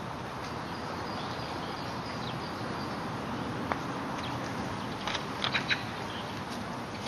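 Small birds chirping over a steady outdoor background hiss, with a quick run of bright chirps about five seconds in. A single light click comes a little before four seconds.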